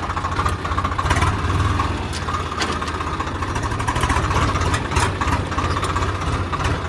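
Tractor diesel engine idling with a steady, fast-pulsing rumble, with several sharp clicks or knocks over it.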